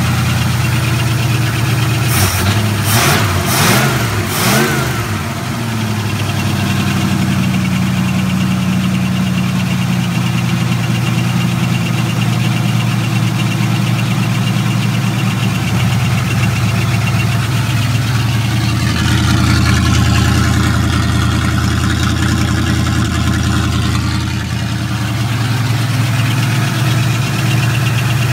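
Ford 302 V8 running loud through an open exhaust with only a flex pipe and no muffler. It is on a cold idle, with the throttle held by hand because the choke isn't set right. The engine note swings up and down a few times a few seconds in, then settles to a steady idle that runs a little faster through the middle.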